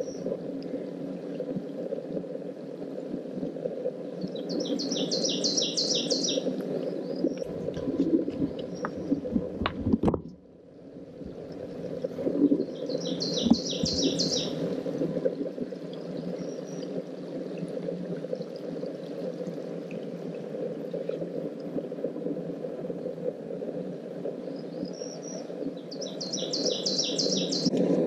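A songbird sings a short, fast trill of rapidly repeated high notes three times, about ten seconds apart, over the steady rush of a forest stream.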